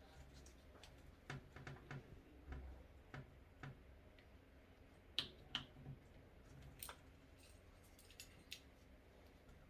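Scattered light clicks and taps at irregular intervals over quiet room tone, the sharpest pair about five seconds in, as small hard parts are handled during toilet installation.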